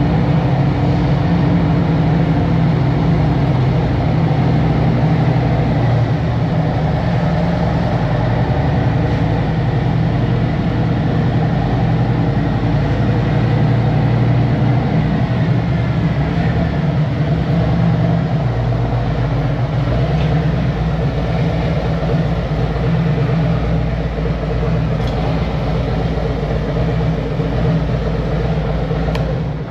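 2023 Harley-Davidson Road Glide Special's Milwaukee-Eight 114 V-twin engine running at low, steady revs. The sound cuts off suddenly at the very end.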